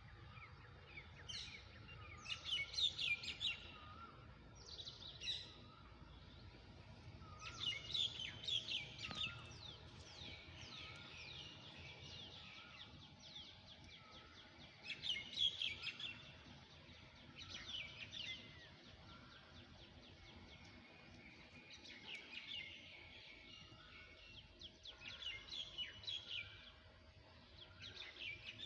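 Small birds chirping in repeated bursts of rapid high notes every few seconds, with softer, lower calls in between.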